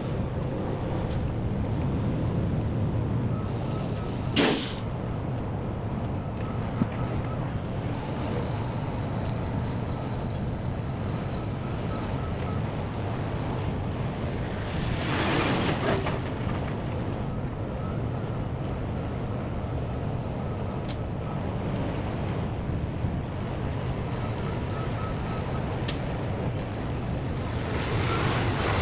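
Heavy diesel engine running steadily, with a short sharp air hiss about four seconds in, a longer air release around the middle and another near the end, and faint high beeps repeating in short groups.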